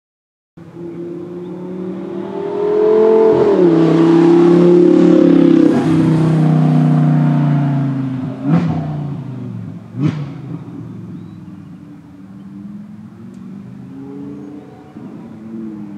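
Audi R8's V10 engine, breathing through a full titanium exhaust, pulling away hard: the engine note climbs and drops with gear changes, two sharp cracks come out of the exhaust a little past the middle, and then the engine fades as the car moves off.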